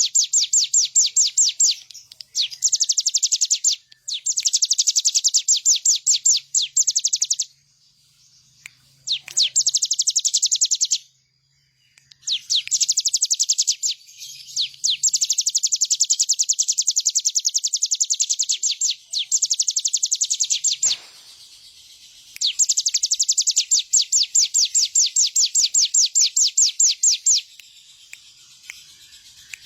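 A ciblek gunung (prinia) singing in repeated bursts of rapid, high trilled notes, each burst lasting a few seconds with short pauses between.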